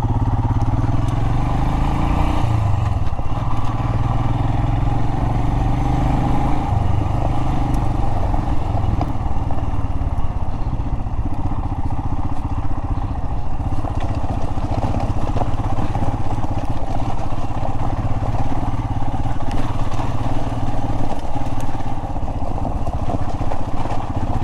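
Royal Enfield Himalayan's single-cylinder engine pulling away, its pitch rising over the first couple of seconds, then running steadily as the motorcycle rides over rough, rocky desert trail.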